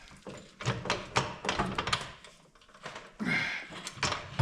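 Irregular metallic knocks, clunks and a short scrape as a Minneapolis Moline ZAU crankshaft is lifted and worked loose from the engine block.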